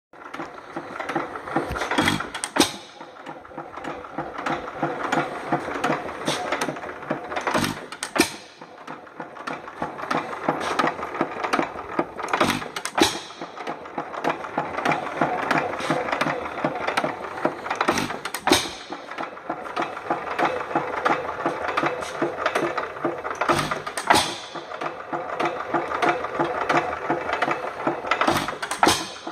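Economy 2½ hp hit-and-miss engine running: it fires twice in quick succession about every five seconds, then coasts between firings with a fast, even clicking of its mechanism.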